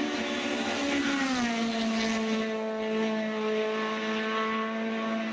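Honda Civic EG6's B16A VTEC four-cylinder engine running at high revs. Its note drops slightly about a second in, then holds steady.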